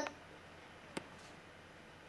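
Quiet room tone with a single short, sharp click about halfway through.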